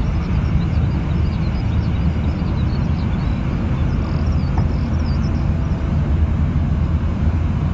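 Jet airliner engines, a steady low rumble.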